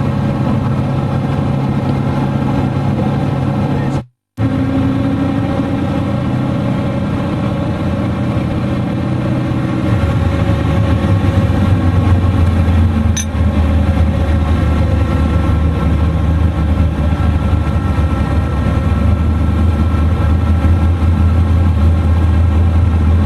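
Twin-turbo 472 Mopar big-block V8 in a Valiant Charger cruising, heard from inside the car: a steady engine drone. There is a brief dropout around four seconds in, and the low drone grows louder about ten seconds in.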